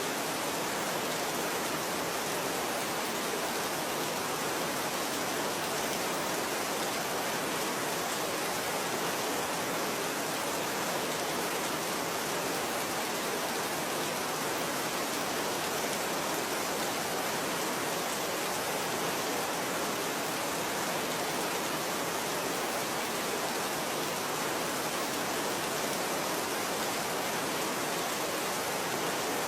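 Steady rain: an even, unbroken hiss with no single drops or other sounds standing out.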